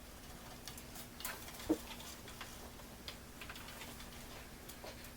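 Faint, irregular light clicks and taps, one a little louder about one and a half seconds in, over a faint steady hum.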